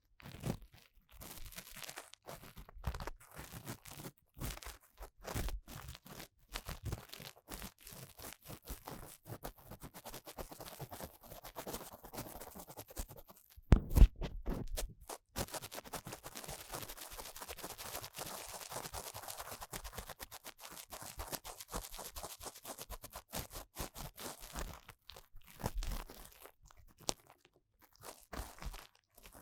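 Ear-cleaning tool scraping and crackling inside the ear of a 3Dio binaural microphone, in dense scratchy strokes. There is a loud bump against the microphone about 14 seconds in.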